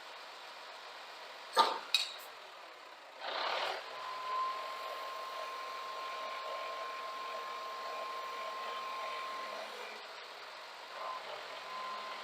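Quiet truck-cab sounds: two sharp clicks, a short hiss of air, then a steady electronic warning tone that holds for about five seconds and stops.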